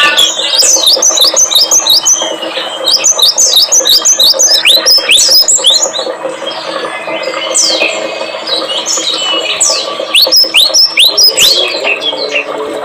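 Recorded small songbirds calling loudly in quick series of sharp, sweeping chirps, dense in the first half and sparser, more scattered sweeping notes later, over a steady low hum.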